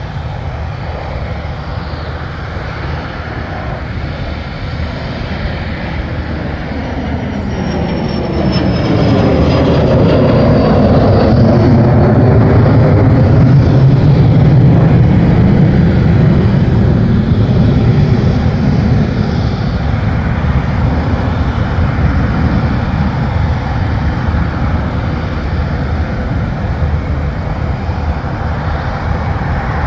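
MV-22 Osprey tiltrotor's twin turboshaft engines spooling up, rotors turning, a heavy steady rush that swells about eight seconds in, is loudest around the middle, then eases slightly. A faint falling whine comes in about seven to eleven seconds in.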